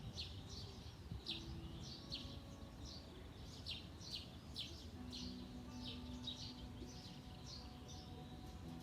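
Songbirds chirping: short, high, falling chirps repeating several times a second, fairly faint.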